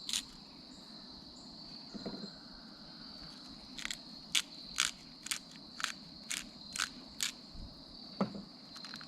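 Crickets chirring steadily in the background, with a run of about eight sharp, evenly spaced clicks in the middle, a little under half a second apart, and a few soft handling scrapes.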